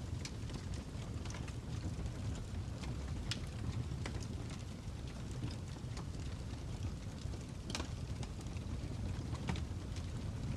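Fire crackling: a steady low rumble with irregular sharp pops and snaps scattered through it.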